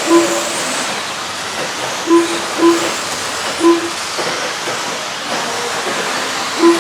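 Electric RC stadium trucks with 13.5-turn brushless motors racing, a steady whir of motors and tyres on the track. Five short beeps from the lap-timing system sound as trucks cross the line, two of them in quick succession.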